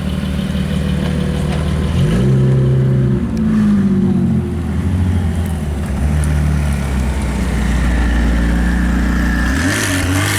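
A car engine running close by, its revs rising and falling several times.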